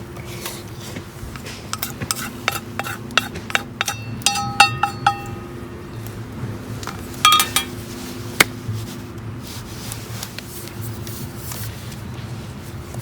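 Metal camp cookware being handled: a run of light clicks and taps, a few of them ringing clinks of metal on metal, with one more ringing clink a few seconds later. A steady low hum runs underneath.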